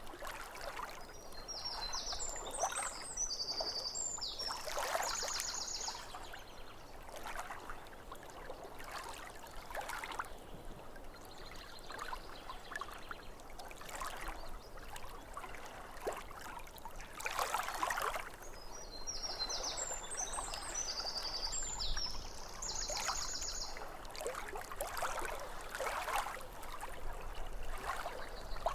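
Small waves lapping against a lake shore in an uneven run of soft splashes, with a bird singing a short phrase of high chirps and trills twice.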